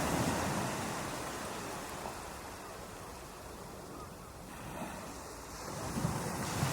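Ocean waves breaking on a beach. One wave's wash fades away, and the next builds and crashes near the end.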